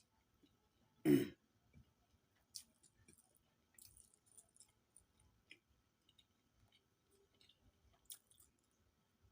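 Quiet eating sounds: soft chewing and scattered small clicks, with one short, loud cough about a second in.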